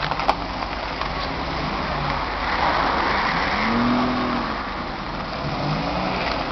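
Classic MG roadsters' four-cylinder engines running at low revs as the cars drive slowly past, the sound swelling about three to four seconds in. There is a sharp click just after the start.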